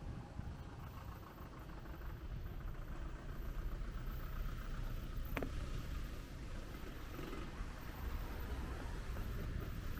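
Steady low rumble of passing street traffic, with one short sharp click about halfway through.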